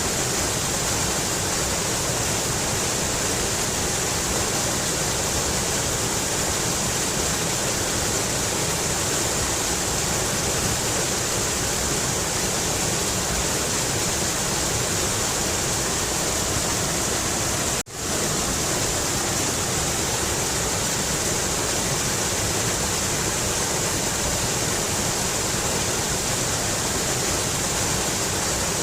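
Mountain river rushing steadily, a dense even hiss of flowing water, broken once by a momentary dropout about two-thirds of the way through.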